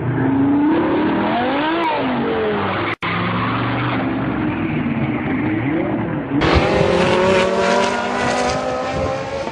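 Supercar engines revving and accelerating across several short clips: pitch rising and falling in the first few seconds, a sudden cut about three seconds in, then a steady climb in pitch as a car accelerates hard from about six seconds in.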